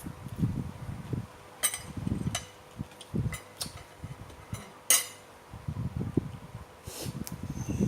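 A person eating: irregular chewing and mouth sounds, with several sharp clicks and clinks of a utensil or dish.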